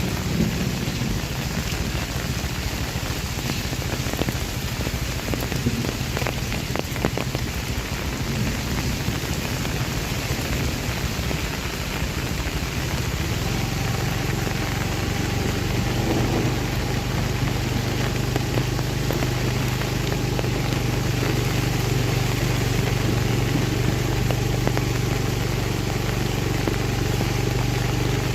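Heavy rain falling steadily. About halfway through, a steady low engine hum from a motor vehicle joins the rain and carries on.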